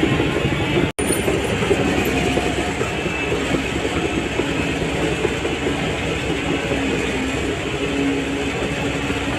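Shantui DH17C3 bulldozer working: its diesel engine runs steadily under load while the steel crawler tracks clank and rattle, with a brief break in the sound about a second in.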